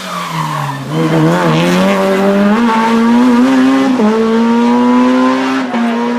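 Race car engine in a hill-climb run, first dropping in pitch as it slows, then accelerating hard and climbing through the gears, with an upshift about every one and a half seconds.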